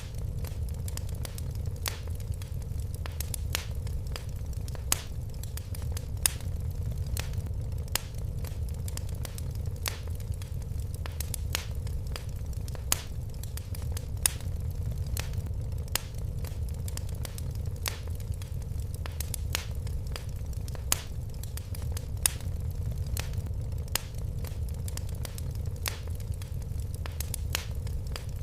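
Fire crackling in a fireplace: a steady low rumble of flames with irregular sharp pops and snaps, a few a second.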